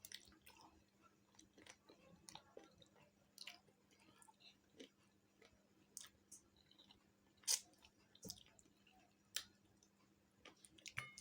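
Close-miked eating of chicken feet curry: chewing and biting with wet clicks and smacks, and a few sharper crunches in the second half.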